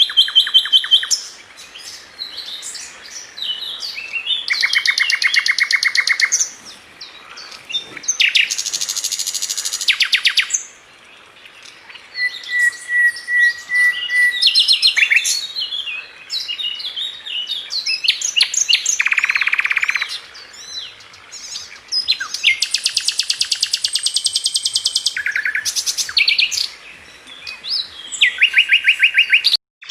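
Flycatcher sold in Indonesian bird keeping as 'sikatan London' singing a varied song of rapid buzzy trills, rattles and clear whistled notes, phrase after phrase with short pauses between them. The song breaks off for a split second near the end.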